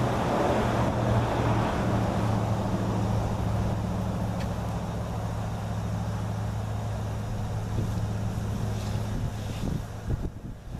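Kubota L2500 tractor's three-cylinder diesel engine turning over with a steady low drone, firing poorly as it struggles to start, then stopping about ten seconds in.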